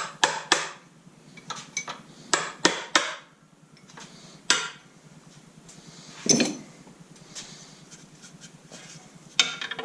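Metal tools and LS V8 engine parts clanking during teardown: a string of irregular sharp knocks and clinks, with a heavier, ringing clunk about six seconds in.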